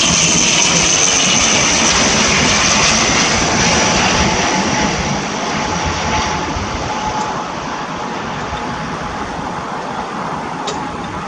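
ATR 72-600 twin turboprop engines passing close at high power, a loud rushing drone with a thin whine in it. The noise eases off from about five seconds in as the aircraft moves away.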